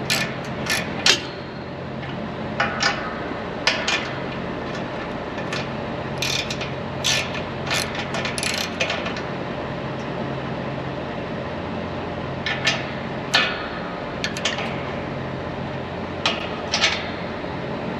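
Socket wrench ratcheting in short bursts of rapid clicks, loosening the bolts of a semi truck's exhaust stack bracket, with a steady low hum underneath.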